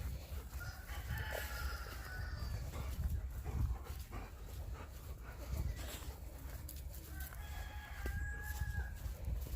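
Rooster crowing twice, a first crow about a second in and a second, longer held crow near the end, over a steady low rumble.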